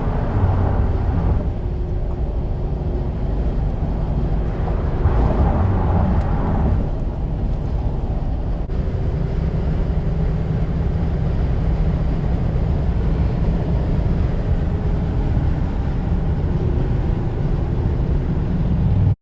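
Steady engine, tyre and wind noise inside the cabin of a first-generation Toyota Tundra pickup driving on the freeway.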